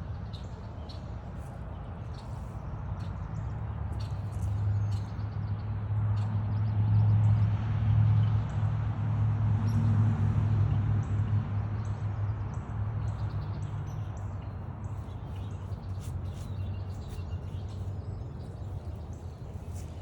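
Small birds chirping and calling over a low engine rumble that swells for several seconds and then fades away, as of a passing vehicle.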